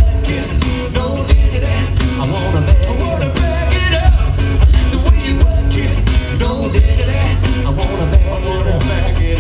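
Live rock band playing, with a heavy electric bass line and drums.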